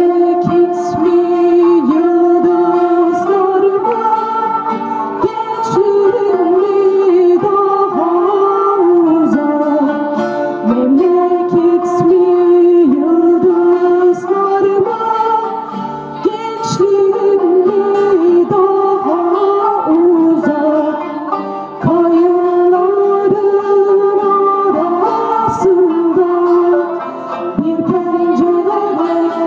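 A song sung by a voice over plucked string accompaniment in an acoustic performance, with long held sung notes.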